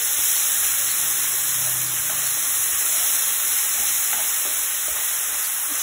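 Wet coriander paste sizzling in hot oil as it is stirred with a wooden spatula, a steady frying hiss as the paste's moisture cooks off.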